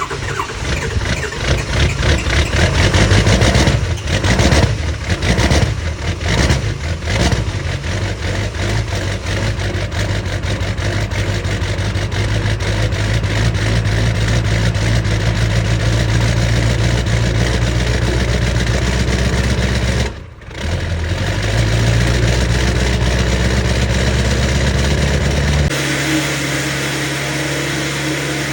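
Ford 7.3 Powerstroke turbo-diesel V8 on a cold start, running rough and uneven with surging for the first several seconds, then settling into a steady diesel idle. Near the end the idle changes to a lower, smoother tone.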